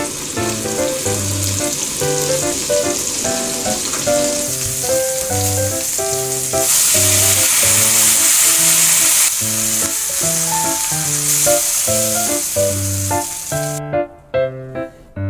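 Food sizzling and frying in a pan, louder for a couple of seconds in the middle and stopping shortly before the end. Background music with a steady melody plays over it.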